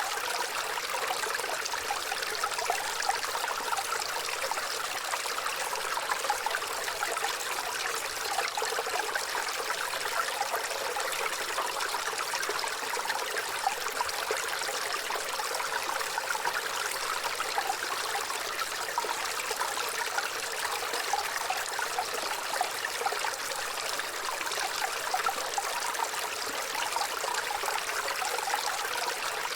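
Waterfall: a steady, unbroken rush of falling water, mostly mid- and high-pitched, with little deep rumble.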